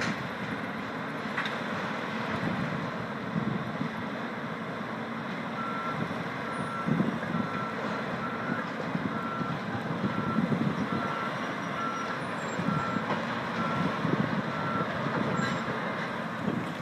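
Back-up alarm of heavy demolition machinery beeping steadily on one pitch, a bit faster than once a second. It starts about six seconds in and runs for about ten seconds, over the rumble of the machines' diesel engines and wind on the microphone.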